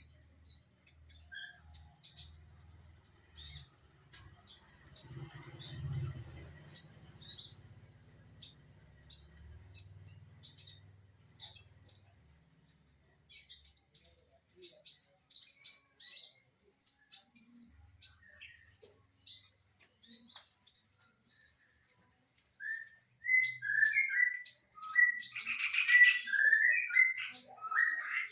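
Konin songbird singing: a quick run of short, high chirps and twitters, turning to louder, lower warbled notes near the end. A faint low hum sits under the first half.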